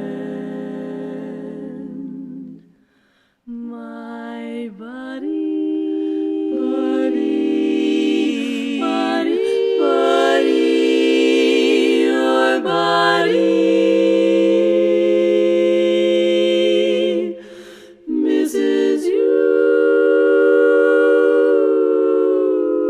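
An a cappella vocal ensemble sings long, held chords in close harmony with no clear words, moving from chord to chord. The chords break off briefly about three seconds in and again near eighteen seconds before a final long chord.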